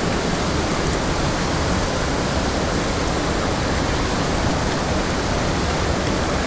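Steady, loud rush of a small mountain stream tumbling over rocks.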